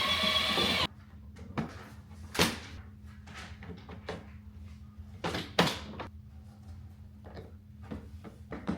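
Background music that cuts off abruptly under a second in, then a quiet room with a faint steady hum and a handful of sharp knocks and clunks, the loudest about two and a half and five and a half seconds in.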